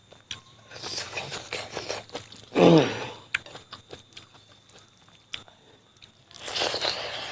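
Close-up eating sounds of pork with bamboo shoots in a rice-powder gravy: chewing, biting and wet mouth smacks with small clicks. About two and a half seconds in there is a short, loud voiced sound that falls in pitch.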